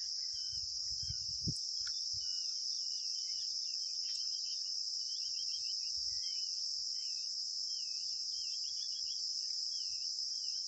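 Steady high-pitched chorus of crickets, with many short bird chirps scattered through it. A few faint low knocks come in the first two seconds.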